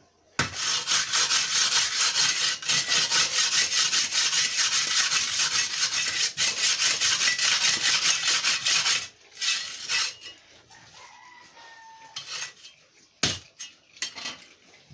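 Rapid, rhythmic scraping for about nine seconds that stops suddenly, followed by a few sharp knocks.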